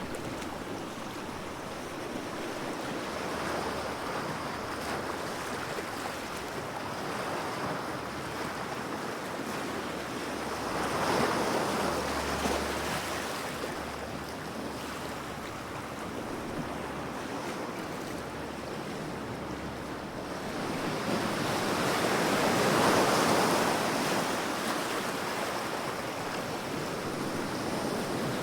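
Ocean waves breaking and washing on the shore, a steady rush that swells into louder surges about every ten seconds, with some wind noise on the microphone.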